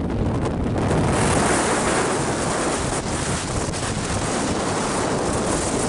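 Wind blowing across the microphone, a loud, steady rush that grows stronger about a second in.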